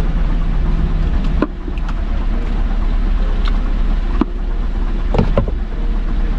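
Car engine idling, a steady low rumble heard inside the cabin, with a few light clicks and knocks.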